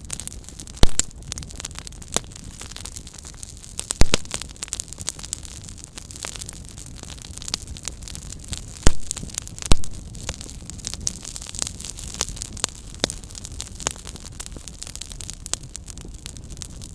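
Small campfire crackling over a steady hiss, with frequent snaps and a few loud pops: about a second in, around four seconds, and two close together just before the tenth second.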